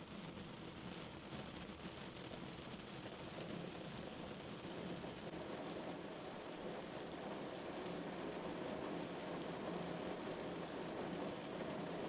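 Rain falling on a car, a steady hiss of drops that grows slowly louder.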